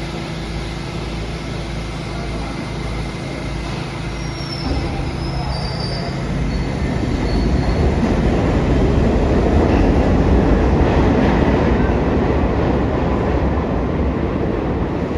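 New York City subway train on the station track: a steady low hum, then a rising rumble from about five seconds in that stays loud through the middle and eases slightly near the end, with a brief high wheel squeal as it starts.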